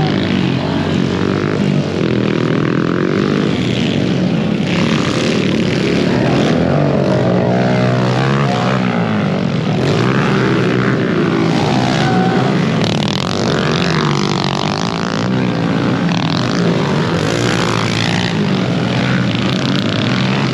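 Several pit bike engines revving, their pitches rising and falling and overlapping as the bikes race.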